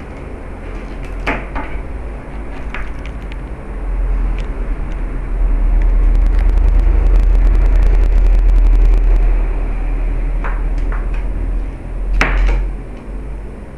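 A small piece of stone knocked and scraped across a hard floor as a cat bats it about, a few separate knocks and scrapes with the loudest near the end. Under them is a loud low rumble that swells in the middle.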